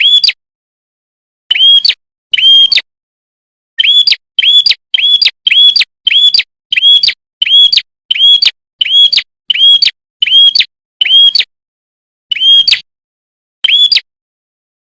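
Red-headed prenjak calling: a loud series of short, sharp chirps, each note rising and falling the same way, repeated about two a second in a fast run through the middle, with slower single chirps before and after.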